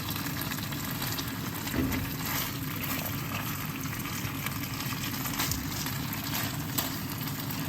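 Chicken thighs frying in teriyaki sauce in a pan: a steady sizzle with scattered small pops and crackles.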